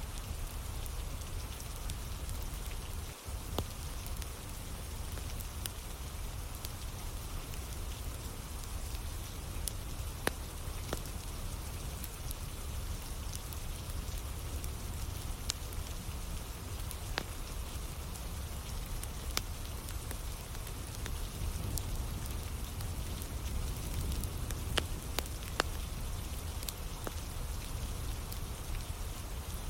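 Steady rain falling, with occasional sharp crackles and pops from a burning wood fire scattered through it.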